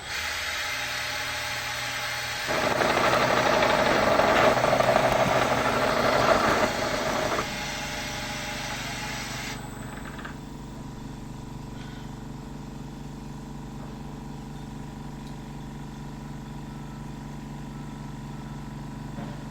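Bridgeport milling machine running, with a louder, harsher stretch of about five seconds early on as the cutter takes a light pass of about a tenth off the part. About ten seconds in the hiss drops away, leaving the machine's steady hum.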